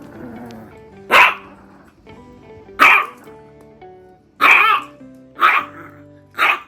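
Toy poodle barking: five short, sharp barks, irregularly spaced, over background music.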